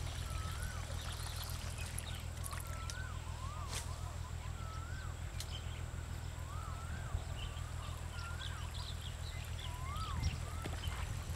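A bird calling again and again, a short whistle that rises and falls, every second or two, over a steady low hum.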